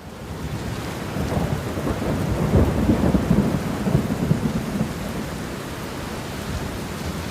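Steady rain with a long rolling rumble of thunder, swelling over the first couple of seconds, loudest around the middle, then easing back to plain rain.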